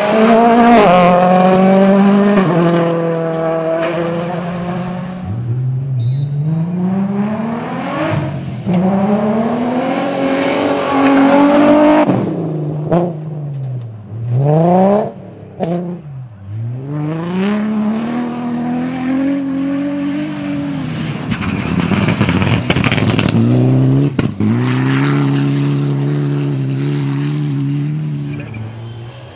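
Rally car engines at full effort on a special stage, the pitch climbing and falling again and again as the cars accelerate, shift gear and lift off for corners. In the middle come several quick drops and rises in revs.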